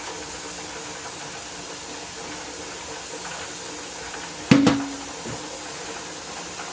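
A container set down once on a kitchen bench: a sharp knock with a short ringing tone about four and a half seconds in, with a lighter knock just after, over a steady hiss and low hum.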